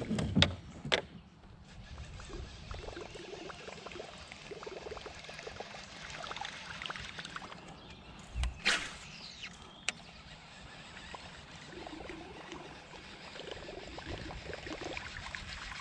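Fast-flowing creek water running and trickling around a kayak, with a few sharp knocks in the first second and a single thump about eight and a half seconds in.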